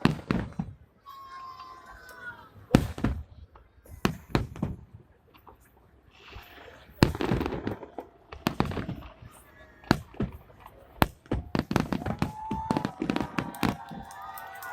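Fireworks salute shells bursting in the sky: about a dozen sharp bangs at irregular intervals, some followed by a rumbling tail, with voices of onlookers between them.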